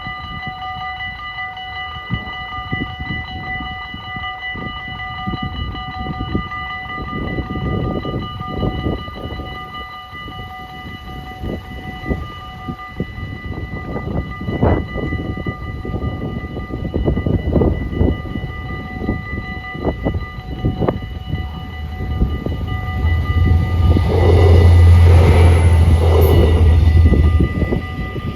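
Level-crossing electronic (EBA) bells ringing steadily, fading out around the middle. In the last few seconds a Stadler GTW-D diesel railcar passes close by, its diesel engine droning loudly.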